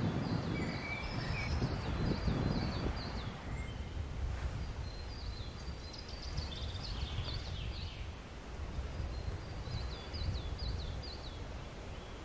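Small birds singing in the open, runs of short high chirps that each drop in pitch, repeated in several bursts over a steady low background rumble.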